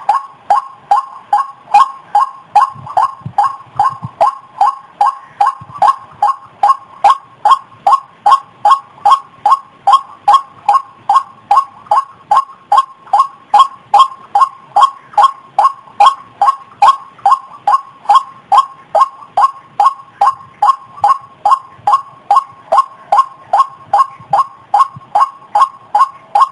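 White-breasted waterhen calling, an unbroken run of evenly spaced notes at about two to three a second, played as a lure call to draw the birds in.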